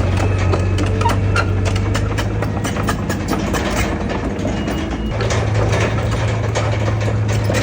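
Heavy earthmoving machine's diesel engine running steadily, with frequent clanks and knocks over it. Its deep hum grows stronger about five seconds in.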